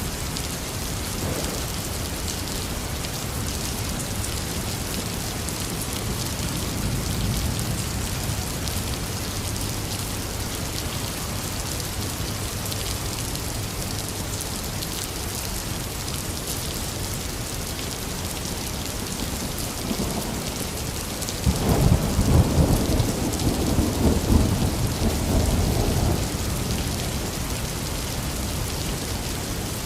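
Heavy rain falling steadily, with thunder: a faint low rumble early on builds into a loud, crackling peal about two-thirds of the way through that rumbles on for several seconds before fading.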